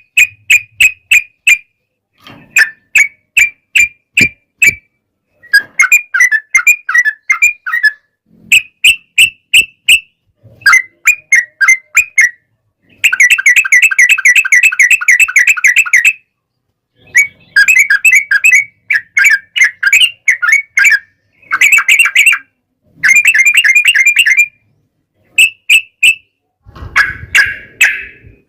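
Yellow-vented bulbuls (trucukan) singing in quick, bubbly, rolling phrases (ropel) separated by short gaps, with one long unbroken run of about three seconds a little before halfway. The birds sing against each other in a fighting duel.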